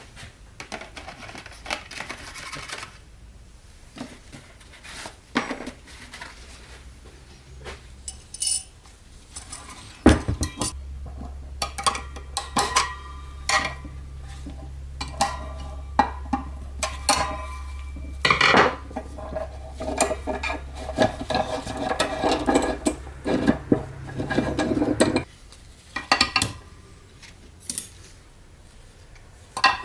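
Metal transmission parts clinking and clattering as they are handled and set down, in a string of sharp knocks. A steady low hum joins about a third of the way in and stops a little before the end.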